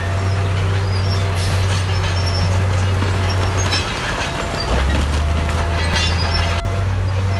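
Bulldozer's diesel engine running under load, with the high squeal and clatter of its steel tracks. The engine note drops about 4 s in and picks back up a second later, and the sound breaks off sharply near the end.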